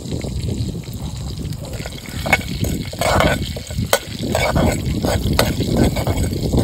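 Lentils and seeds sizzling in hot oil in a steel kadai, with a few sharp clicks. Near the end a steel spoon stirs them round the pan.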